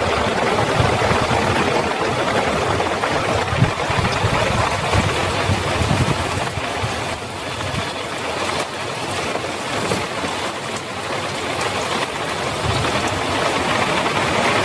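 Heavy rain falling steadily, a dense even hiss, with an uneven low rumble underneath.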